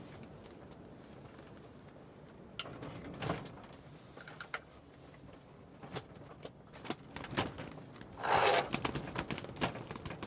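Scattered light clicks and knocks of things being handled in a small enclosed space, with a brief rustle about eight seconds in.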